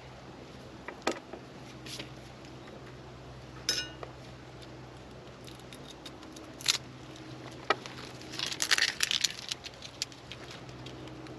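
Scattered clicks, taps and rustles of hands working with cooking gear and food, with a burst of crackly rustling near the end.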